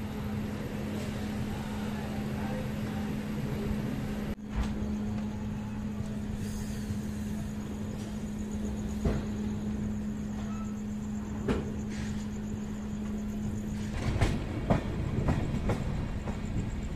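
Express passenger train pulling out of a station: a steady running noise with a low hum, and now and then a sharp clack of the wheels over rail joints. Near the end the hum drops out and the clacks come quicker and more irregularly.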